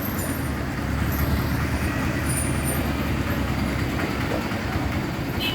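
Steady low rumble of motor traffic, an engine running close by.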